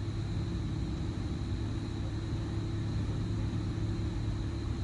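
Steady low rumble and hiss of background noise, with a faint steady high whine.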